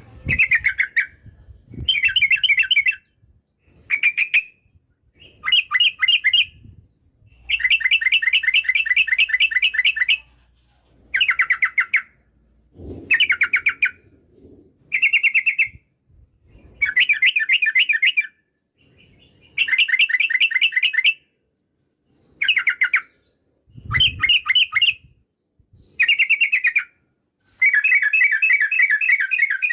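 Yellow-vented bulbul (trucukan) singing: a string of short phrases of rapid, bubbling notes, about fourteen of them, with brief pauses between.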